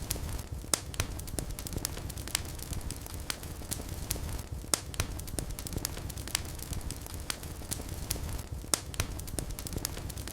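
Wood fire burning in a fireplace: a steady low rumble of flames with irregular crackles and pops, several a second, a few sharper and louder than the rest.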